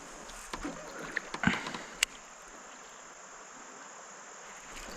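Handling noises in a fishing kayak: a few light knocks and short rustling, splash-like sounds in the first two seconds, and one sharp click about two seconds in, then a faint steady hiss.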